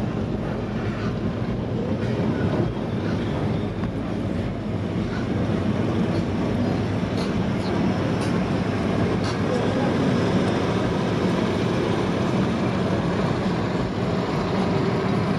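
Car engines running steadily, with a low hum under a general hubbub of voices.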